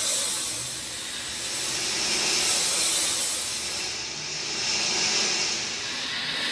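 Rain falling in a steady hiss that swells and eases every couple of seconds.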